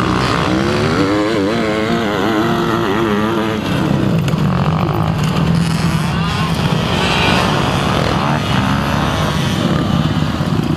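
Motocross bike engine running, its pitch rising and falling with the throttle for the first few seconds, then holding a steadier note.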